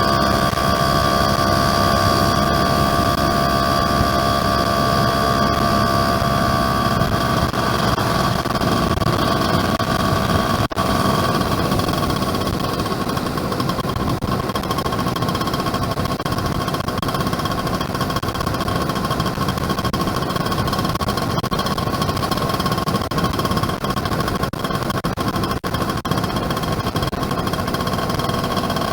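Yamaha F1ZR two-stroke motorcycle engine running at a steady cruising speed while riding, over road and wind noise.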